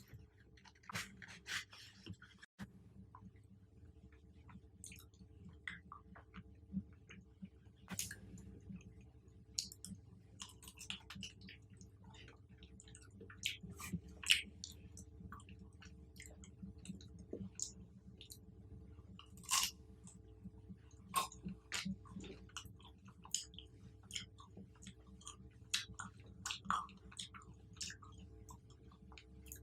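Close-up chewing of fruit, with frequent irregular crunches and crackles as it is bitten and chewed.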